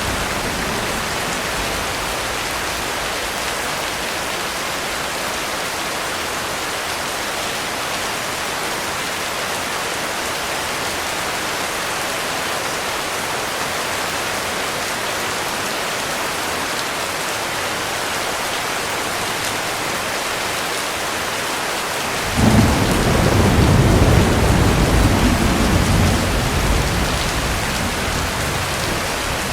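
Heavy rain falling in a steady hiss. About three quarters of the way through, a rumble of thunder starts suddenly, swells, and dies away over several seconds.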